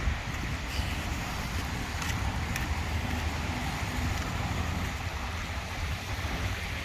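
Strong wind buffeting the microphone, a steady low rumble with a hiss of moving air over it.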